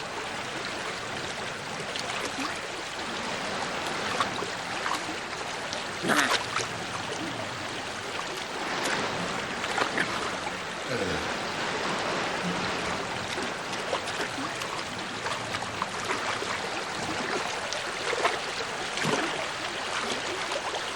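A river running over shallows: a steady rushing of water, with a few brief louder sounds on top, the strongest about six seconds in.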